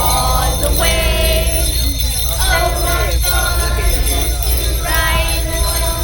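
Jingle bells ringing steadily over Christmas music.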